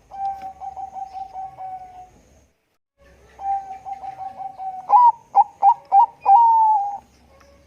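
Bangkok-bred zebra dove (perkutut) cooing. It gives two phrases of quick rolling notes with a short pause between them; the second phrase ends in a few louder notes and one long drawn-out coo.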